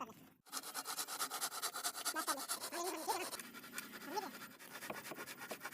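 Rapid, even scraping strokes on wood, about eight a second, with a short break just after the start.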